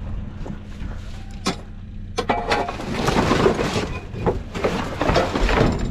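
Clattering, knocking and scraping of metal and plastic sink fittings being handled, starting about two seconds in after a single click, over a steady low engine rumble.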